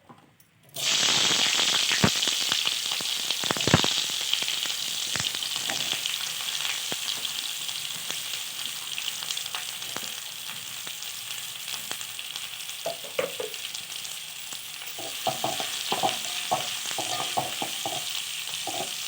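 Chopped onions dropped into hot oil in a kadai start sizzling suddenly about a second in, then go on frying with a steady sizzle. A spatula knocks and scrapes against the pan as they are stirred, more often near the end.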